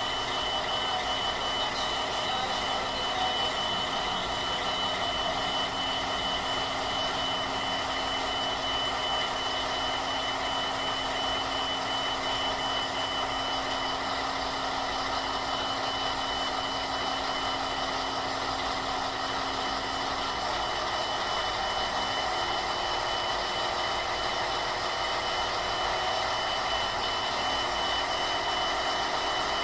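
Road train's diesel engine idling steadily, with a rapid high-pitched electronic warning beep sounding over it.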